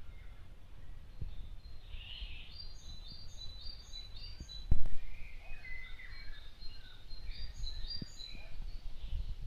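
Small birds singing and chirping in quick, short high notes over a low, steady rumble of wind on the microphone. One loud thump comes about five seconds in.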